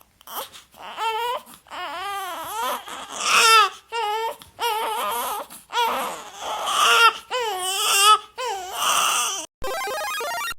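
A person crying loudly in a series of high, wavering wails and sobs. Near the end a different steady sound takes over for about a second.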